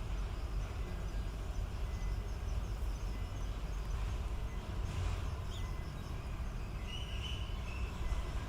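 Steady low outdoor background rumble, with a few faint high chirps a little past halfway and near the end.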